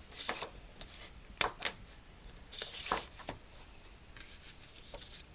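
Cardstock being handled on a craft table: a few short rustles and light taps, spread over the first three seconds, with one faint tap near the end.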